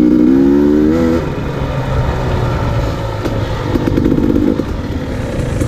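Dirt bike engines running, one revving with its pitch rising through the first second, then settling back and blipping again around four seconds in.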